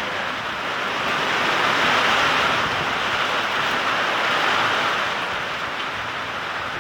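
Wind-driven heavy rain of a severe thunderstorm, a steady rushing downpour that swells about two seconds in and eases off near the end.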